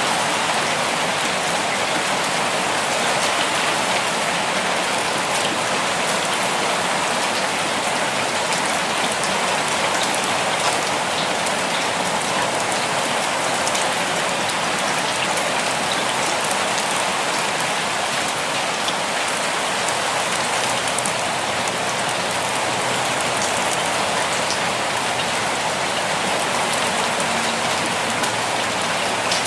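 Steady, even rainfall, a dense patter of raindrops hitting a surface with no thunder or change in intensity.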